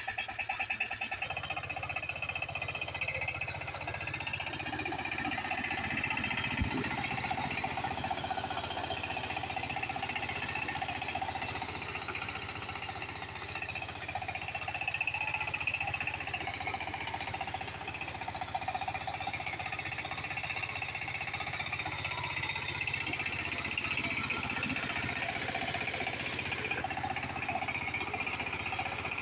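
Power tiller diesel engine running steadily with rapid, even firing pulses; a deeper rumble joins about a second in.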